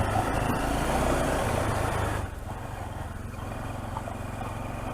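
Single-cylinder Honda CRF dirt bike engine running while riding, a steady low hum that gets noticeably quieter a little over two seconds in.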